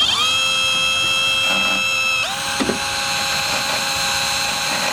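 Electric drill running with a steady motor whine. It spins up at the start and shifts pitch a little over two seconds in, as its speed changes under load.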